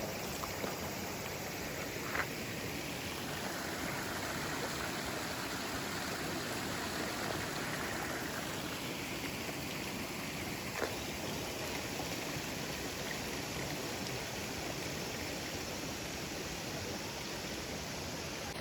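Mountain stream water rushing steadily, with two short faint clicks about two seconds in and again near the middle.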